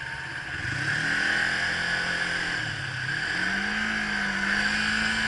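Motorcycle engine accelerating: the revs climb, drop briefly a bit over two seconds in as if at a gear change, then climb again and hold steady.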